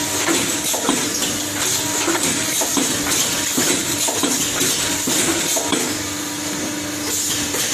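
Soap production line machinery running, with a continual metallic clinking and clatter over a steady hum and hiss.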